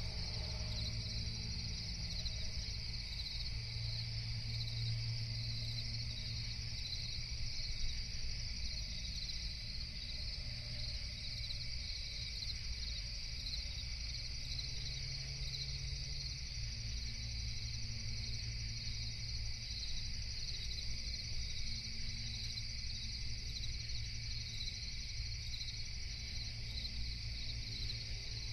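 Night crickets chirping continuously in a dense, pulsing chorus, over a steady low rumble.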